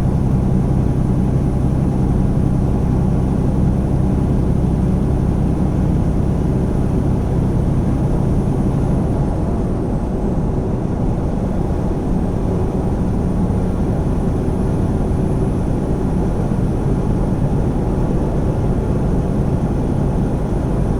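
Tractor-trailer's diesel engine and road noise droning steadily inside the cab while the truck drives along.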